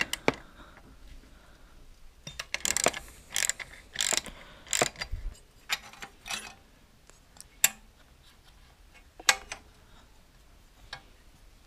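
Socket ratchet with an extension working a bolt: short runs of ratchet clicks through the first half, then single clicks spaced well apart.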